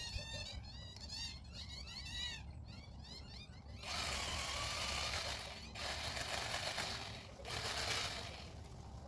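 Birds chirping for the first couple of seconds. Then, from about four seconds in, a pole saw cuts into a conifer limb in three bursts of cutting noise, the last one shortest.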